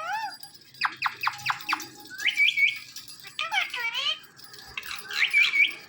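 Indian ringneck parrot calling: a quick run of about five short, sharp chirps about a second in, then several warbling, squawky calls that rise and fall in pitch.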